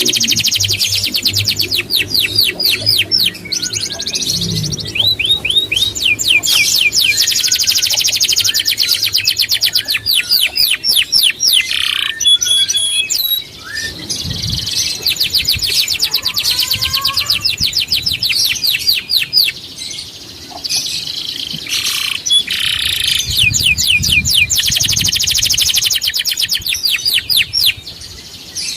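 A songbird singing long, fast trills of high sweeping notes, many per second, in phrases several seconds long with brief pauses between them.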